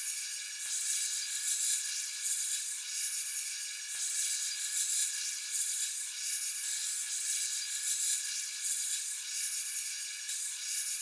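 Steady high hiss that swells and fades unevenly about once a second.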